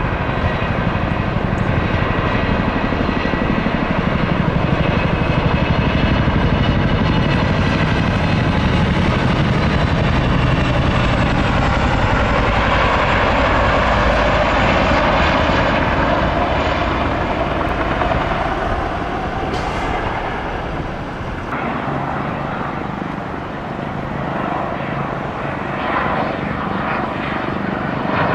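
Aircraft engines at close range: a steady roar with thin high whining tones at the start, swelling to its loudest about halfway through and then easing off.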